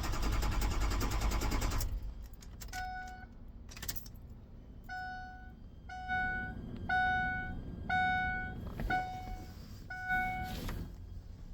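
A truck's starter cranking the engine for about two seconds without it catching, then a dashboard warning chime beeping about once a second. This is a no-start that the owner puts down to something with the fuel pump or the fuel sensor.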